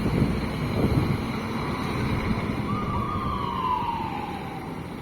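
Scania P-410 bus engine running as the bus goes by, with a whine about three seconds in that falls steadily in pitch as it passes.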